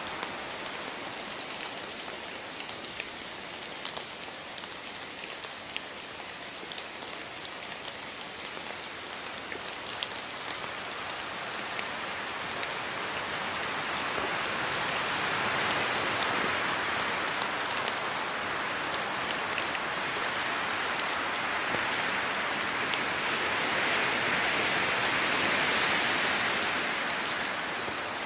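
Rain falling steadily, with fine drop ticks through it; it swells heavier around the middle and again near the end.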